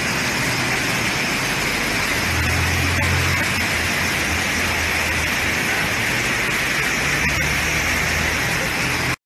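Heavy rain mixed with hail falling on a street, a steady hiss, with a low rumble, from traffic or distant thunder, joining about two seconds in.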